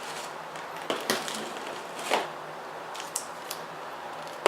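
Parts and packaging being handled while a quadcopter kit is unboxed: a few scattered knocks and rustles.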